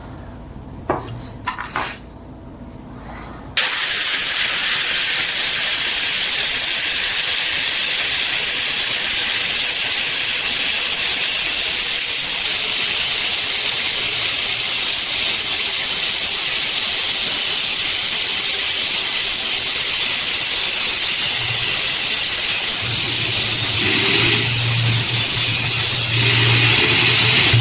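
Steady, loud spraying hiss, like a compressed-air jet, that starts suddenly about three and a half seconds in after a few light clicks. A low, steady hum joins it in the last few seconds.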